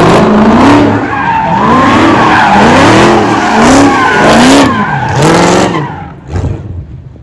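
V8 car doing donuts: the engine revs up and falls back in quick surges about once a second over continuous tire squeal, fading away about six seconds in.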